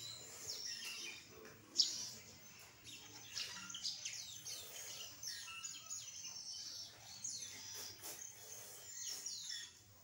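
Small bird chirping: a steady run of short, high, falling chirps, with one louder chirp about two seconds in.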